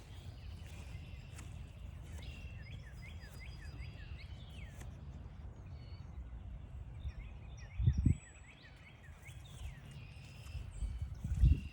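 Many short, high, falling chirps repeat over a steady low rumble. Two heavy low thumps stand out, one about eight seconds in and one near the end.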